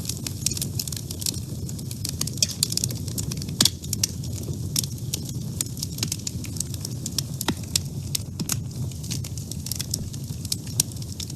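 Wood fire burning in a woodstove: a steady low rumble of the flames with many sharp, irregular crackles and pops, one louder pop a little over a third of the way in.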